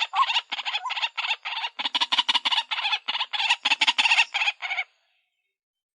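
White-breasted waterhen calling in a fast run of repeated notes, about five a second, which stops suddenly almost five seconds in.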